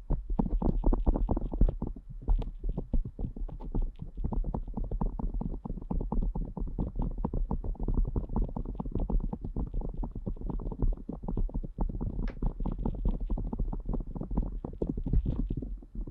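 Ear picks scraping and rubbing inside an ASMR ear microphone, a dense, continuous run of rapid, muffled scratching strokes.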